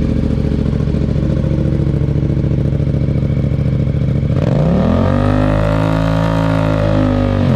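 Yamaha MT-07's parallel-twin engine idling through an Akrapovič Racing Line carbon exhaust, then revved up about four seconds in and held high for a couple of seconds before dropping back near the end.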